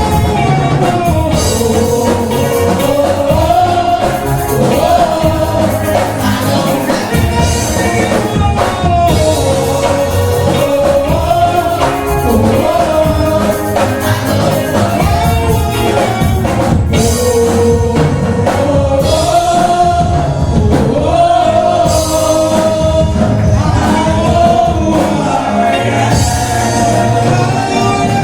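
Gospel singing group performing with band accompaniment: voices carry a melody over a steady bass and drum backing, with cymbals coming in and out.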